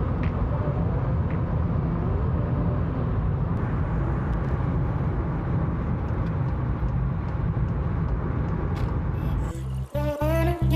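Steady road and engine noise heard inside a moving car's cabin. Near the end it cuts abruptly to music.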